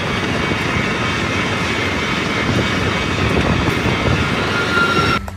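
Passenger train running past at speed: a steady rush and rumble of the carriages on the rails, cutting off suddenly near the end.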